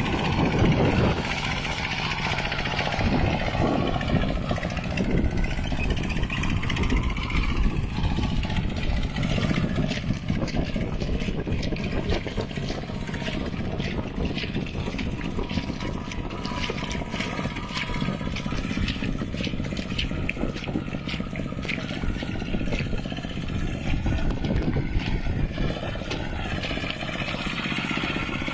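Mini tractor engine running steadily under load while plowing a muddy field, with many short clicks and knocks through the middle.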